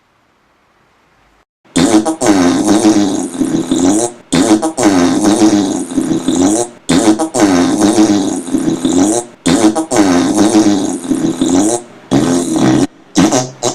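A layered loop of silly noises stacked into a music-like pattern, with a low droning, wavering tone that repeats about every two and a half seconds. It starts after near silence about two seconds in, and the last repeats near the end are shorter and choppier.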